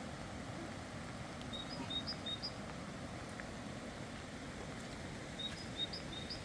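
A small bird singing a short phrase of quick high notes, heard twice, over a steady outdoor background hiss.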